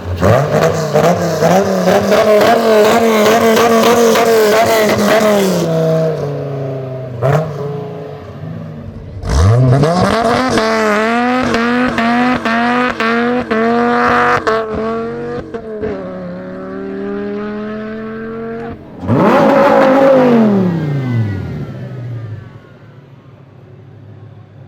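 Dodge Viper V10 exhaust under hard acceleration, heard in three runs. The first is a long, steady, loud pull. The second comes in suddenly and climbs in pitch in a series of steps with short dips between them, like upshifts. Near the end a car goes by, its pitch rising and then falling away.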